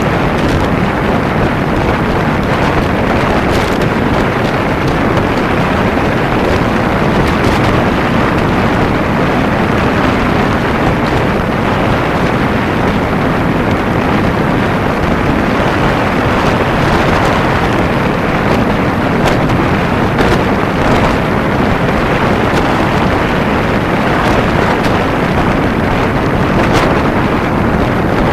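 Steady wind rushing over the camera's microphone at riding speed, mixed with the Kawasaki Ninja 250 motorcycle's engine running under it.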